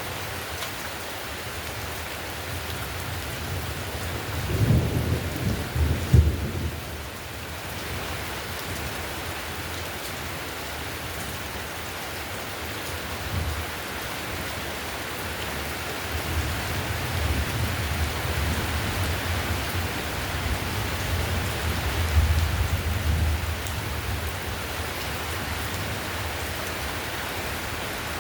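Heavy rain falling steadily on a clay-tiled roof, with low thunder rumbling about five seconds in and again for several seconds in the later part.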